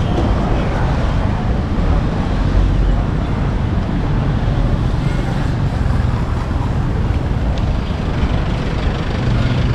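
Road traffic noise: vehicles running past on a busy road with a steady low rumble. A nearby engine's low hum comes in near the end.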